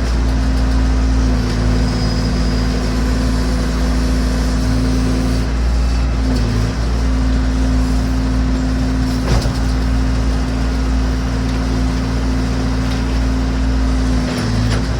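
Massey Ferguson BX 50 backhoe's engine running steadily at a constant speed, with one short sharp knock about nine seconds in.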